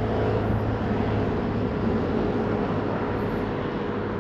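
Steady engine hum of a motor vehicle running, with road noise, swelling slightly at first and then holding level.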